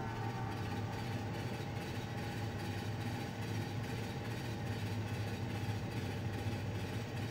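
Train sound effect: a steady low rumble of a train running along the track.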